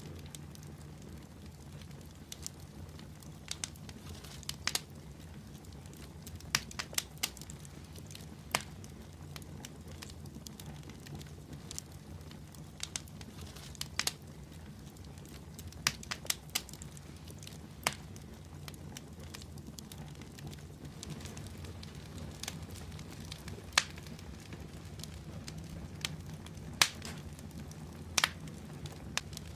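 Wood fire burning in a fireplace: a steady low rumble with sharp, irregular crackles and pops, a few every couple of seconds.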